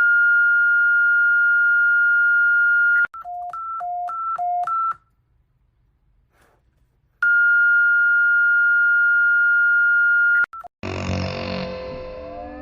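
Emergency alert system attention tone: a loud, steady high beep of about three seconds, then a quick run of beeps alternating between high and low, about two seconds of silence, and the long steady beep again. Near the end, music with a guitar-like sound starts.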